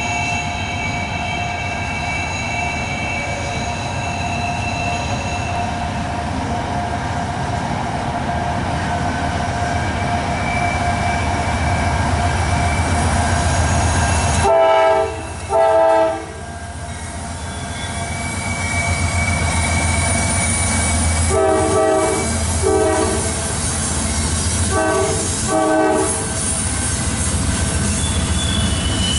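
Diesel locomotives of a Norfolk Southern freight train running with a steady low rumble, and thin high squeals from wheel flanges grinding on the curve. The lead locomotive's multi-note air horn sounds three pairs of short blasts: one pair about halfway through, another some six seconds later, and a third a few seconds after that.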